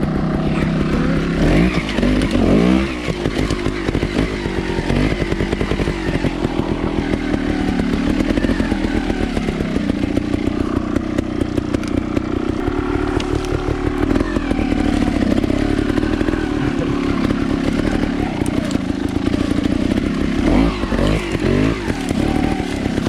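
Trials dirt bike's engine running as it is ridden, the revs swinging up and down with quick blips of throttle about two seconds in and again near the end.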